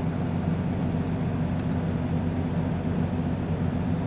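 Vehicle engine running steadily, a low even hum with no change in pitch.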